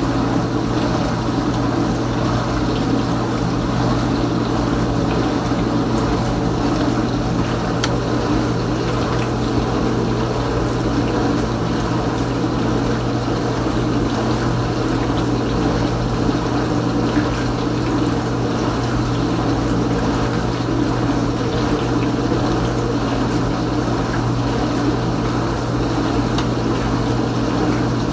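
Kenmore Ultra Wash dishwasher's pump motor running steadily with a low hum while water sprays and sloshs inside the tub during a wash or rinse stage of its normal cycle.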